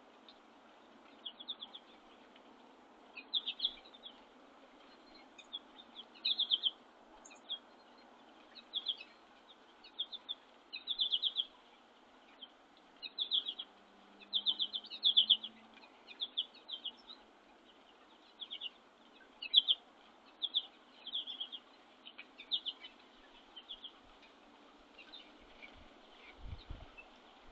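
Small songbird giving short, buzzy chirping calls over and over, roughly one every one to two seconds, over a faint steady background hiss.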